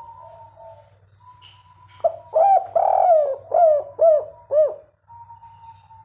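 Spotted dove (derkuku) cooing: one phrase of five rising-and-falling coos over nearly three seconds, the second of them longer, with a faint steady hum beneath.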